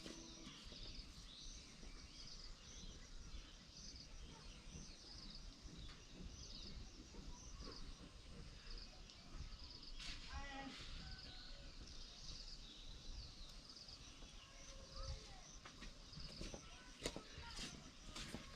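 Faint outdoor ambience with a bird chirping repeatedly in short high chirps, and a few light knocks near the end.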